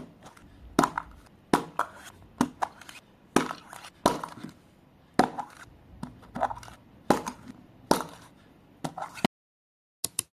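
Repeated sharp cracking knocks, roughly one every three-quarters of a second, as mystery eggs are struck and broken open; they stop a little after nine seconds, followed by a few quick clicks near the end.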